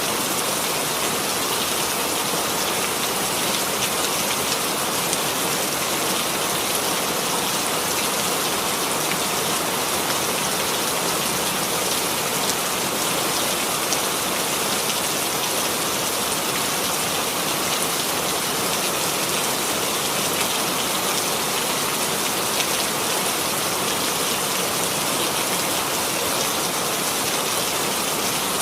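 Steady rainfall: a continuous hiss of rain with many fine drops pattering on a surface.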